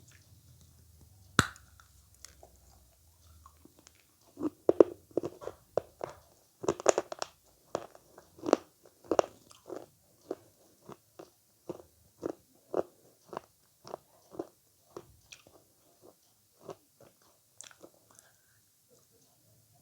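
Close-miked ASMR eating sounds of a person biting into and chewing avocado. There is one sharp bite about a second in. From about four seconds in comes steady chewing at about two chews a second, loudest at first and softer towards the end.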